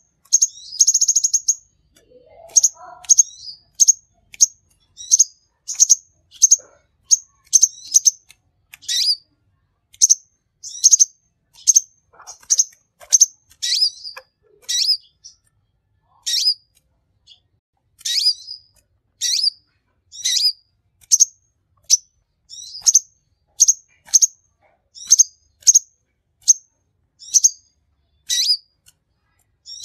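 Konin sunbird (kolibri) singing non-stop: a long run of short, high, sharp chirps, about one to two a second, with a buzzy trill about a second in.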